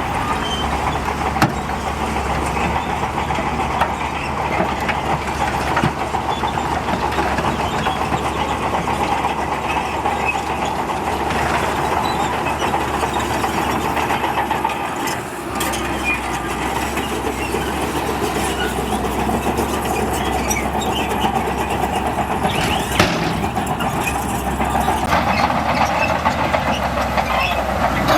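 Heavy diesel engine of a bulldozer running steadily under load, with scattered metallic clanks and a brief dip in engine sound about halfway through.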